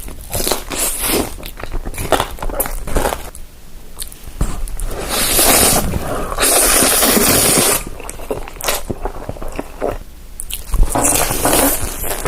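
Close-up crunching and chewing of crisp food: a run of sharp bites and crunches. In the middle there is a stretch of about three seconds of steadier, hissy noise.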